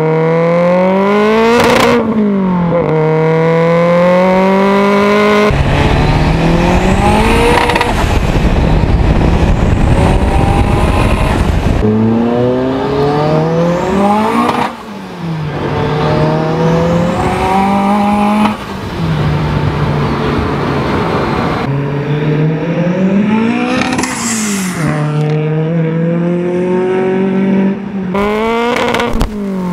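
Turbocharged VW Golf Mk1 16V four-cylinder engine revving hard through the gears, its pitch climbing under acceleration and dropping at each shift, with a few quick up-and-down throttle blips. A high whistle rises during some of the pulls, and for several seconds a loud rushing noise covers the engine.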